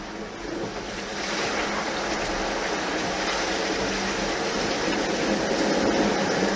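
A vehicle driving through floodwater on a flooded road: a steady rush and wash of water, louder from about a second in, with a low engine hum beneath.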